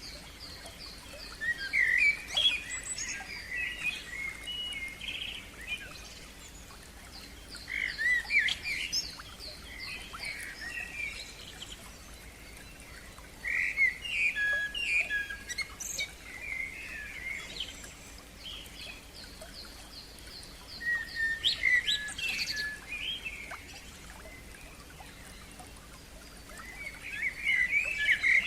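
Wild songbirds singing. One bird gives a short, bright song phrase about every six seconds, five times in all, while another keeps up a fast run of high, repeated notes in the gaps between phrases.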